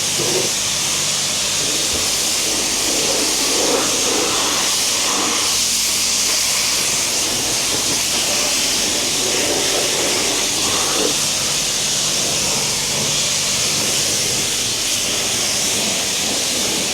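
High-pressure wand at a self-serve car wash spraying water onto a car, rinsing it with a steady loud hiss.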